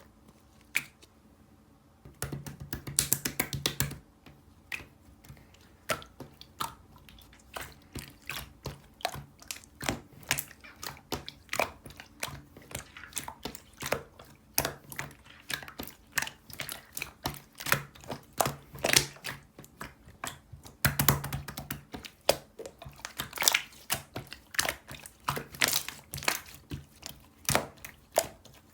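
Close handling noise: a steady run of crisp clicks and crinkles, with two louder bouts of rustling crinkling, one about two seconds in and one about three-quarters of the way through.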